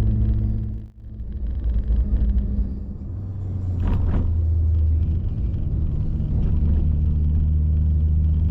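Car engine and road noise while driving. The engine sound drops out briefly about a second in, as at a gear change, then builds back up. A short noisy burst comes about four seconds in, before the engine settles to a steady lower note.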